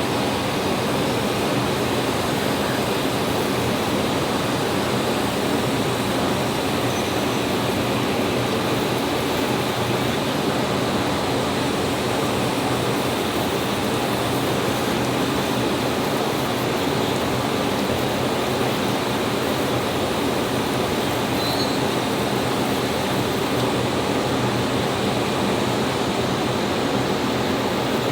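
A pressurised cleaning jet hissing steadily without a break, used to clean rust dust off an engine flywheel.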